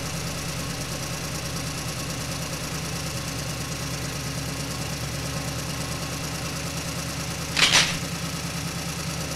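Semi-truck engine running with a steady low drone. A short hiss cuts in about three-quarters of the way through.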